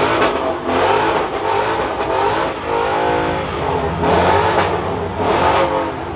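A car engine revving hard in repeated surges. About halfway through, its pitch climbs and then drops away.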